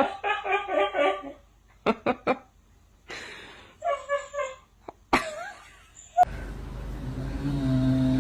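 A person laughing in a quick run of short pulses, with a shorter burst of laughter about four seconds in and a few sharp clicks between. Near the end a steady noisy hum with low tones comes in abruptly.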